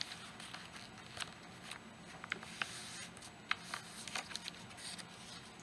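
Folded paper airplane being handled: faint crinkles and short crackles of the paper, several spread out irregularly.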